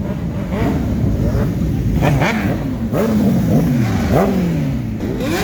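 Sportbike engines revving, their pitch climbing and dropping back again and again, with more than one engine heard at once.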